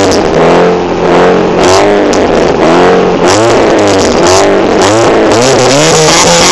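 Daewoo Lanos 1.6 16-valve four-cylinder petrol engine revved repeatedly through a straight-through exhaust, its pitch rising and falling in quick blips.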